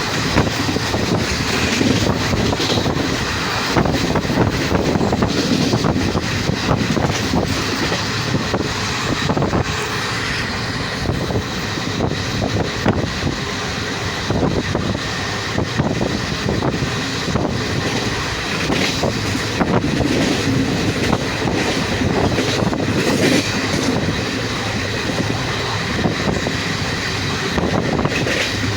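Passenger train running along the track: a steady rumble with irregular clattering of the wheels over the rails, and wind rushing over the microphone.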